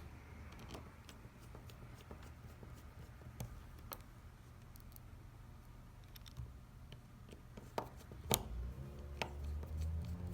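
Scattered faint clicks and taps of a small screwdriver working tiny screws into a phone's frame, with a sharper tap about eight seconds in.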